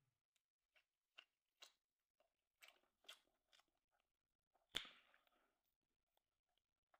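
Faint close-up chewing and crunching of a bite of steak sandwich, in short crunches about twice a second, with one louder crunch a little before five seconds in.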